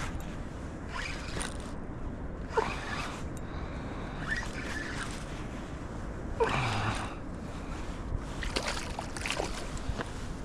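Fishing reel buzzing in short, irregular bursts, about six, while a hooked fish is fought and reeled in.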